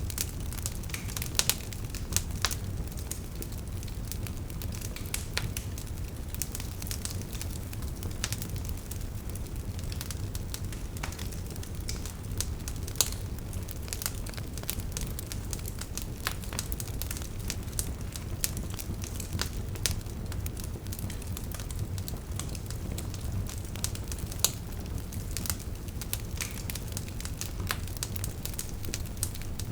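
Wood fire burning with a steady low rumble and frequent irregular crackles and pops from the logs.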